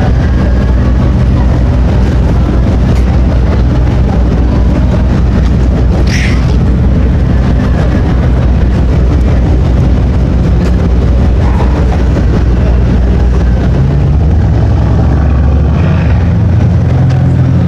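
Supercar engine running at low revs, a steady deep rumble; about fourteen seconds in its note shifts upward. A brief high squeak sounds about six seconds in.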